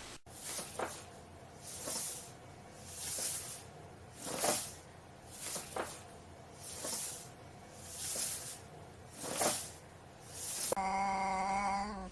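An animal's rhythmic hissing breaths, about one every 1.2 s, some with a faint squeak. Near the end a cat gives a drawn-out meow.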